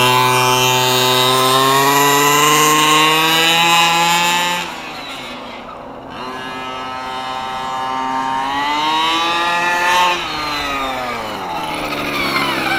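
Redcat 1/5-scale RC truck's 32cc two-stroke gas engine running at high revs, its pitch slowly climbing under throttle. About five seconds in the throttle drops off and the engine falls back, then it winds up again before easing off near ten seconds.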